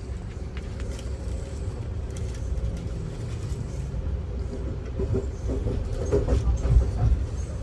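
Passenger train riding along, heard from aboard: a steady low rumble with occasional light clicks and rattles.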